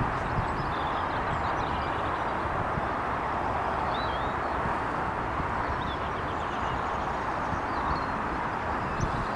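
Steady rushing outdoor noise, even in level throughout, with small birds chirping faintly and intermittently high above it.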